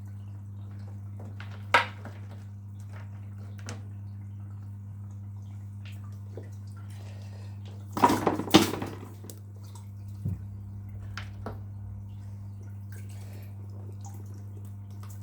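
Steady low electric hum of an aquarium pump or powered syphon, with scattered clicks of rocks being moved in the water and a louder clatter of stones and splashing about eight seconds in.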